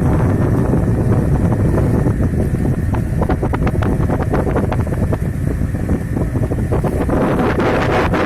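Wind buffeting the microphone in a loud, steady rumble aboard a sailing boat, with a run of crackles and clicks through the middle.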